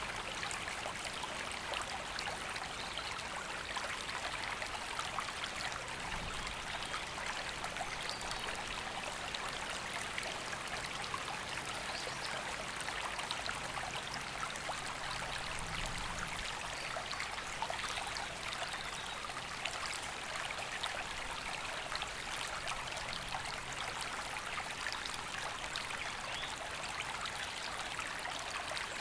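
River water flowing and babbling steadily, an even rushing sound that does not change.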